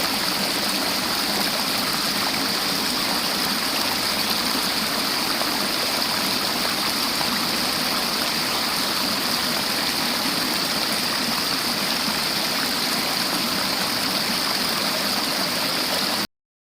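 River water flowing steadily, with a constant rushing hiss; the sound cuts off suddenly near the end.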